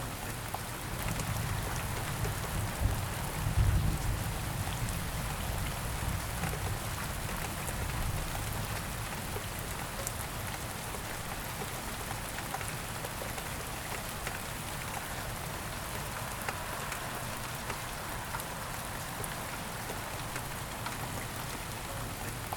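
Steady rain falling, a dense hiss with scattered individual drop ticks. A low rumble swells in about a second in, is loudest around four seconds, and dies away by about eight seconds.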